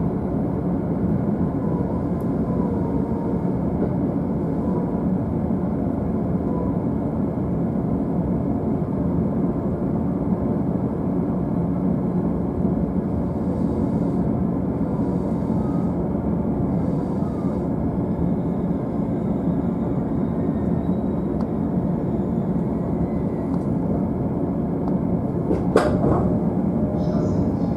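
JR East E531 series electric train running at speed, heard from an upper-deck seat of a double-deck car: a steady low rumble of wheels on rail, with one sharp knock near the end.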